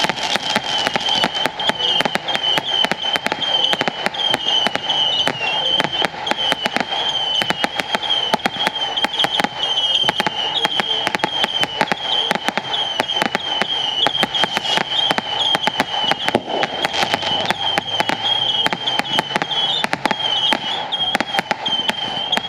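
Fireworks going off in a rapid, unbroken stream of crackling cracks and bangs, many a second, over a steady, wavering high whistle.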